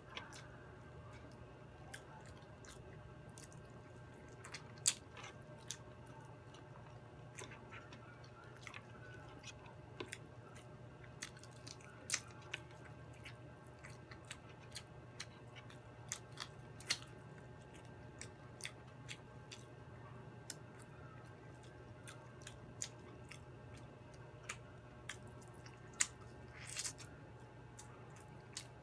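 A person chewing fried chicken and rice, with irregular sharp mouth clicks and crunches, the loudest about five seconds in and near the end, over a steady low hum.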